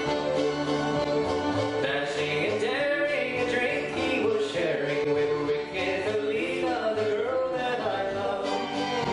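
Bluegrass combo playing an instrumental break: double bass stepping through notes under acoustic guitar and strings, with a lead line that slides and bends in pitch from about two seconds in.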